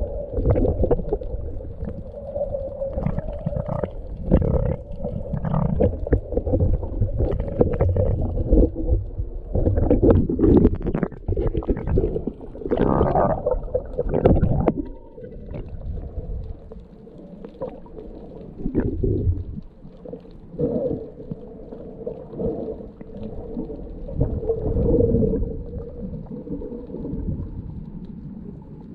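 Muffled gurgling and sloshing of water heard through an underwater camera while snorkelling, in uneven surges that are loudest in the middle, with a faint steady hum underneath.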